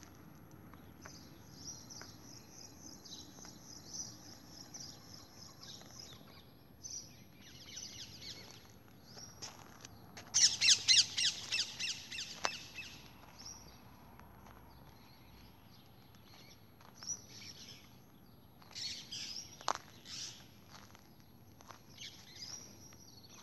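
Small birds chirping and calling, with a loud burst of rapid, repeated harsh notes about ten seconds in that lasts a couple of seconds.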